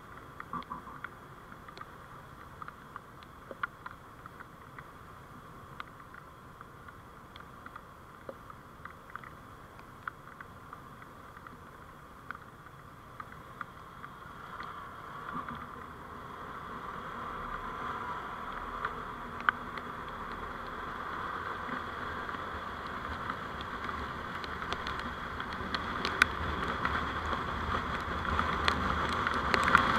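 Road and running noise of a moving vehicle, with scattered small clicks. It grows steadily louder over the second half, as the vehicle picks up speed.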